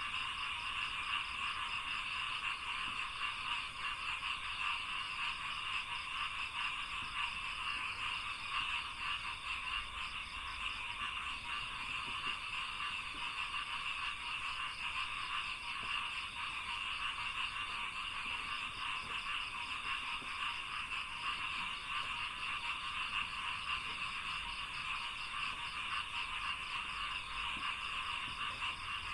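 A dense, unbroken chorus of many frogs croaking together, a fast fine pulsing held at an even level, with a faint steady high hiss above it.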